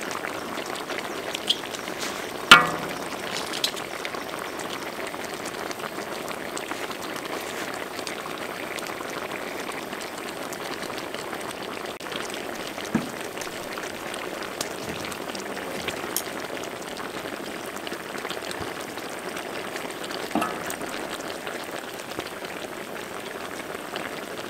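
Whole quail sizzling steadily in a hot wok. Metal tongs clink against the wok a few times, the loudest a ringing clink about two and a half seconds in.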